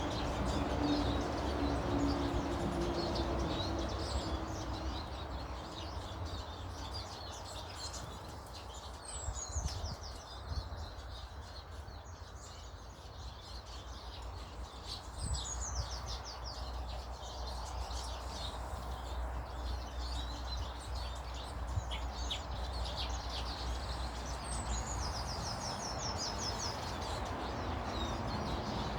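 Small birds chirping and calling, with a few short descending trills of rapid notes about nine seconds in, around fifteen seconds in and near the end, over a steady low background rumble.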